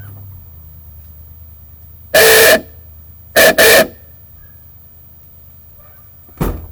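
A newly hooked-up horn on a 1992 Ford Ranger honking: one half-second blast, then two quick short toots about a second later. A loud thump near the end.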